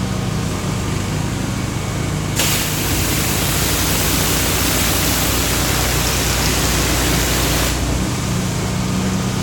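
Pressure-washing rig running with a steady low hum. About two seconds in, a loud even hiss of high-pressure hot-water spray through the surface cleaner starts suddenly; it cuts off after about five seconds.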